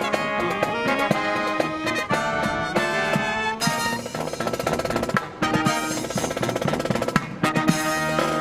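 Brass marching band playing a Christmas medley: trumpets and trombones with drums and other percussion.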